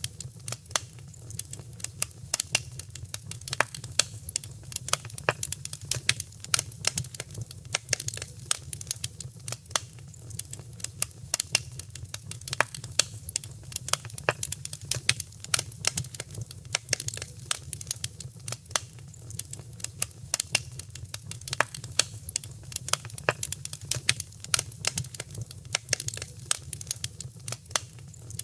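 Fire in a fireplace crackling, with many sharp irregular pops and snaps over a steady low rumble.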